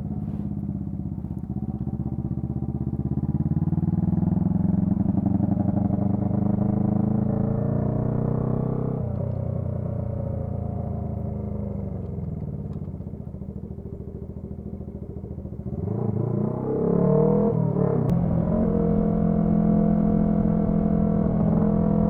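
Honda CB125T's twin-cylinder engine running through a loud muffler: the engine note climbs over the first few seconds, drops off about nine seconds in and sinks low, then picks up again around sixteen seconds and holds steady near the end.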